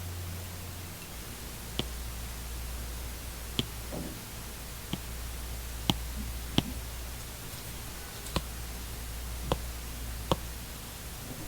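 Apple Pencil tip tapping on an iPad screen: about eight short, sharp taps at irregular intervals over a low steady hum.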